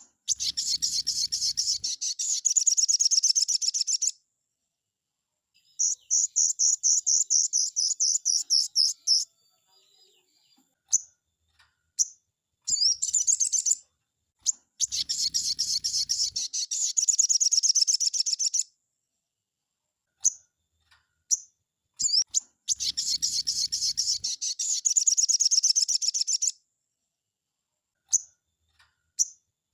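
A sogon songbird singing its full 'nembak' song: long, rapid, high-pitched phrases of quickly repeated notes, each lasting about four seconds, four times over, with short single calls in the pauses between.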